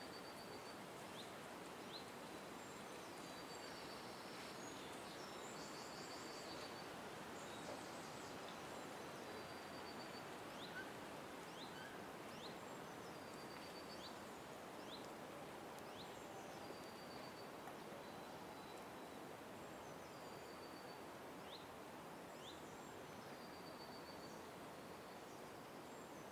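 Small birds calling: many short, high upward chirps and brief high trilled notes repeated every couple of seconds, over a steady faint hiss of background noise.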